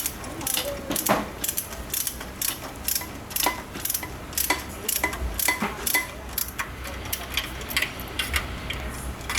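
Hand tools clicking in short, irregular strokes, a couple of sharp metallic clicks a second, like a ratchet wrench worked on exhaust fittings.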